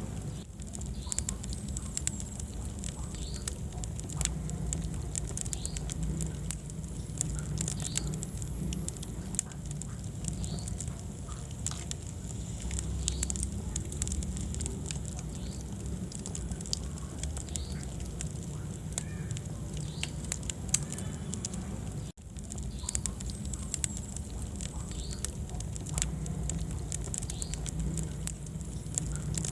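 Wood fire in a fireplace crackling, with frequent sharp pops and snaps over a steady low rumble of flames. The sound drops out for an instant about two-thirds of the way through.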